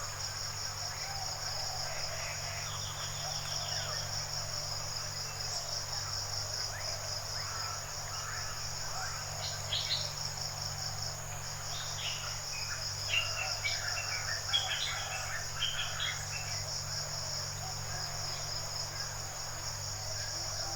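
Forest ambience of insects trilling: a steady, high, rapidly pulsing buzz throughout. Short bird chirps come in around the middle, over a steady low hum.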